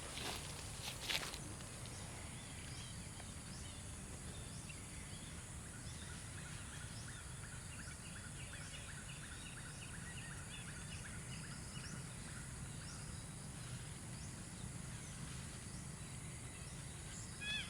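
Outdoor ambience with a steady high hiss and a few sharp clicks in the first second or so. Midway an animal calls in a rapid run of short chirps, about four a second, for several seconds. A brief falling call comes near the end.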